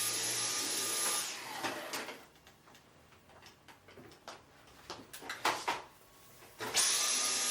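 Vacuum cleaner running with a steady whine, switched off about a second in and winding down. A few clicks and knocks follow while it is off, then it is switched back on near the end and spins up.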